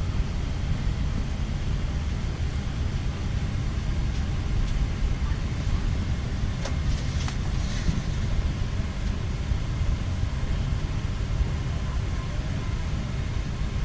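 Steady low rumble of an airliner cabin on the ground, the hum of the air supply and aircraft systems, with a few faint clicks about seven seconds in.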